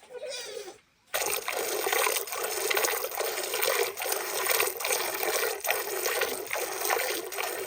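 Running water, a steady rushing and splashing that starts abruptly about a second in, after a faint bird call.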